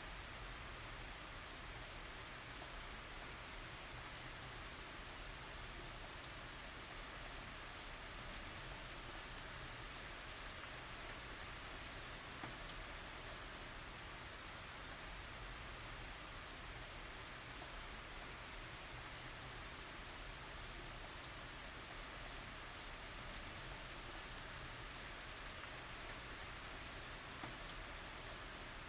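Steady tropical rain falling, a constant hiss with scattered small drop ticks and no thunder.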